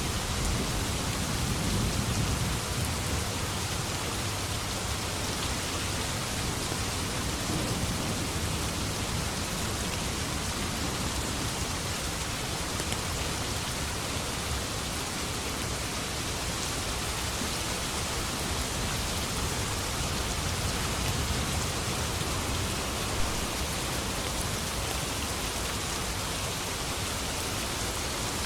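Steady heavy rain, an even hiss, with a low rumble of distant thunder swelling about two seconds in and fainter rumbles later.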